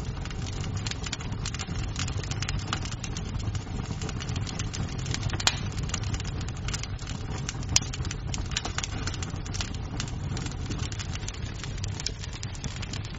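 Wood fire crackling in a fireplace: a steady low rumble of flames under frequent small snaps, with two louder pops midway, a couple of seconds apart.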